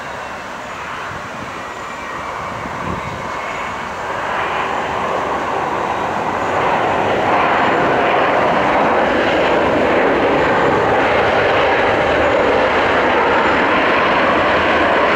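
Jet airliner engines, a loud steady roar that builds over the first half and then holds at full strength.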